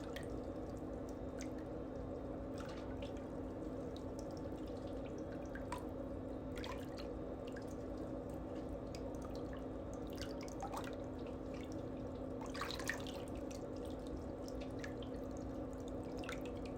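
Faint background: a steady low hum with scattered soft drip-like ticks every second or so.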